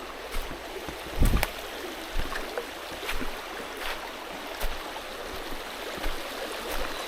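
Mountain stream rushing steadily, with a few short knocks scattered through it, the loudest about a second and a half in.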